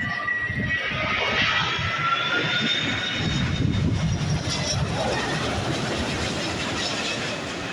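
Airbus A330-941 (A330neo) passing close on its landing approach, its Rolls-Royce Trent 7000 turbofans running with a loud rushing roar and a high whine. The sound is loudest a second or so in and eases off toward the end.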